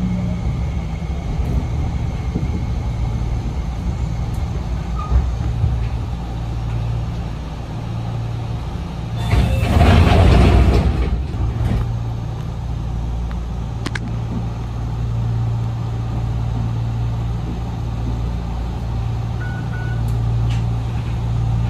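An Enshu Railway electric train running, heard from inside at the front of the car: a steady low hum of motors and wheels on the rails. About nine seconds in, a louder rushing noise comes in and lasts about two seconds.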